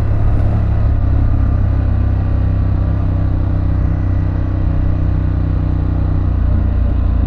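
2024 Harley-Davidson Pan America's 1250 cc V-twin engine running at a steady, low engine speed while riding, with a constant engine note and no revving.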